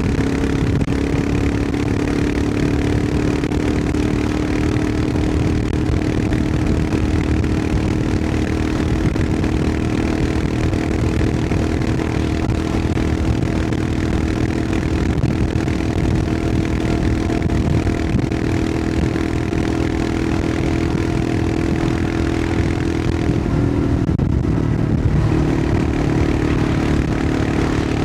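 Royal Enfield Himalayan 411's 411 cc single-cylinder engine running steadily as the motorcycle rides along. Near the end the engine note drops briefly as the throttle eases, then picks up again.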